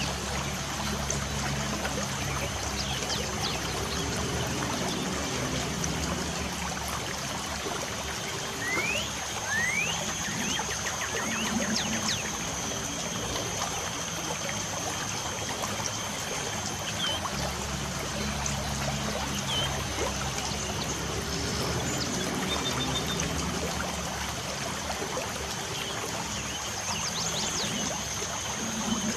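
Light rain falling with a steady trickling water sound, and birds chirping now and then over it, a few quick chirps around a third of the way in and again near the end. A thin steady high-pitched whine runs underneath.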